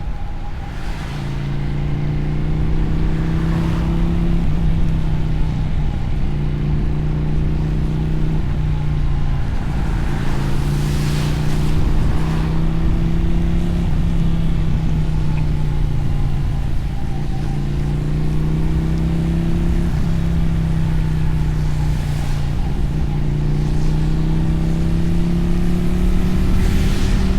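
Motorcycle engine and exhaust under way, its pitch climbing slowly and then dipping at each gear change, several times over. A steady rush of wind and wet-road noise runs underneath.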